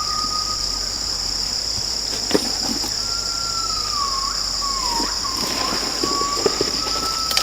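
Rainforest insects calling without a break: a steady high buzz with a lower tone that wavers and dips in pitch, and a few light knocks.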